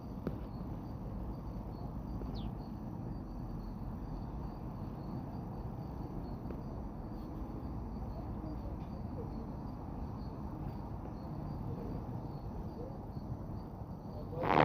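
Outdoor nature ambience: a steady high insect trill over a low background rumble, with a few brief bird chirps. A single loud knock comes right at the end.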